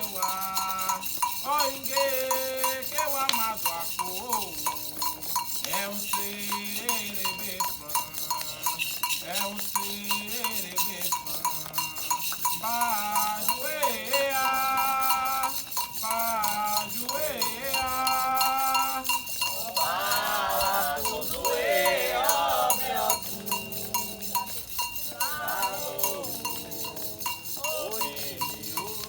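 Candomblé sacred chant: voices singing over a fast, steady stream of strikes on a ringing metal agogô bell.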